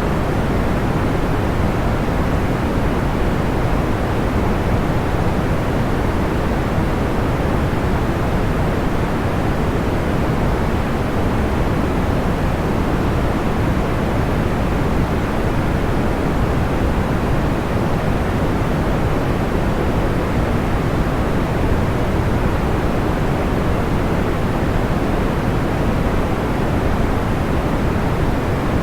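Steady, even white noise with its weight in the low and middle pitches, like soft pink noise. No separate crackles or pops stand out.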